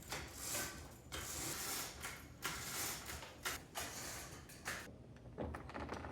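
Quiet kitchen handling noises: a string of short rustles, clicks and clatters, like utensils, containers or packaging being moved about.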